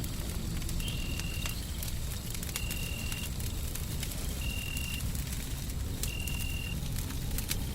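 Wood fire crackling in a hearth over a steady, deep white-noise rumble. A short, high, steady tone repeats four times, about every second and three quarters.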